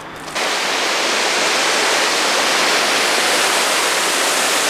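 Kaaterskill Falls: a waterfall's steady, loud rush of falling water, cutting in suddenly just after the start.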